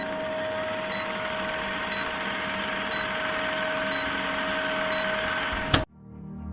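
Steady mechanical noise with a constant hum and a faint tick about once a second, cut off suddenly near the end, after which music fades in.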